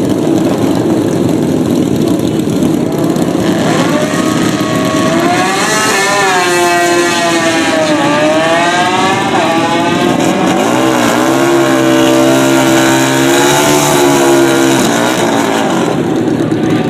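Drag-racing motorcycle engines at full volume: a steady drone, then from about four seconds in engine notes climbing and falling in pitch as the bikes rev and accelerate. A steadier engine note holds for a few seconds after the middle.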